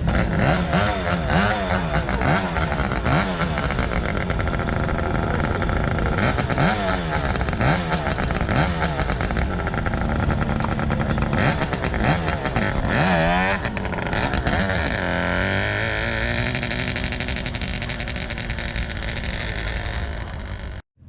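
An engine revving up and down again and again, then running more steadily with a slowly rising pitch. The sound cuts off abruptly near the end.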